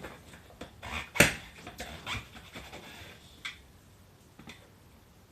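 Tyre lever knocking and scraping against a motorcycle wheel rim while the bead of an 18-inch motocross tyre is levered and pushed down into the rim well, with one sharp loud knock about a second in and several smaller clicks.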